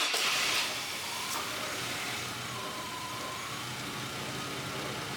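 The 2002 Chevy Blazer's 4.3L Vortec V6 has just been started and is running at idle, with the old mass airflow sensor refitted to check for a suspected MAF fault. It is louder for about the first half second, then settles to a steady idle.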